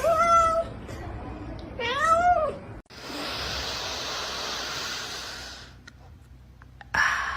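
A domestic cat meowing twice: a short held meow at the start, then a meow that rises and falls about two seconds in. After an abrupt cut comes a steady rushing noise for about three seconds.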